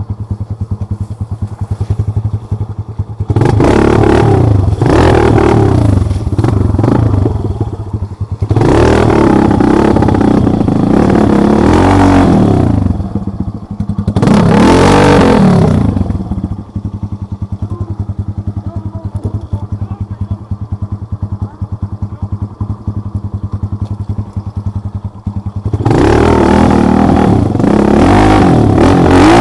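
Motorcycle engine revving in several long bursts, its pitch rising and falling, and dropping back to a lower, quieter run for about ten seconds in the middle before it revs again near the end.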